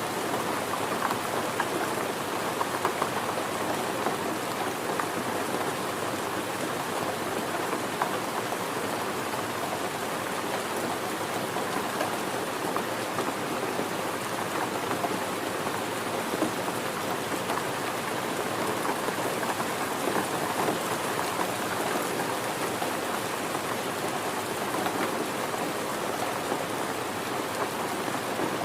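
Steady rain falling on a surface, an even hiss with many small drop ticks and no letting up.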